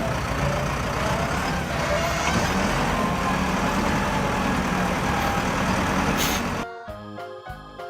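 Heavy vehicle engine running: a loud, dense, steady noise with faint wavering tones that cuts off abruptly about seven seconds in. Light background music with short plucked notes follows it.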